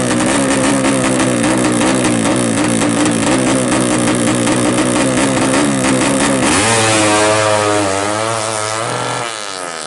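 Suzuki FU drag bike's 200 cc engine with twin exhausts running hard at high revs, its pitch wavering. About two-thirds through the pitch jumps up, then it slides down as the sound fades near the end.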